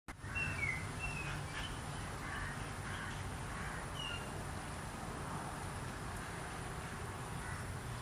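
Outdoor ambience with birds: a handful of short, falling chirps, most of them in the first two seconds and one about four seconds in, over a steady low rumble and a faint, steady high-pitched tone.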